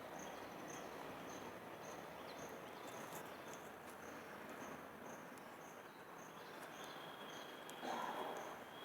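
Faint room tone with a cricket chirping steadily in the background, about two high-pitched chirps a second.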